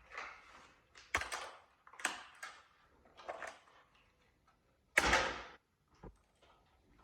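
Plastic toy-set parts and packaging being handled during assembly: a series of short clacks and rustles, the loudest about five seconds in.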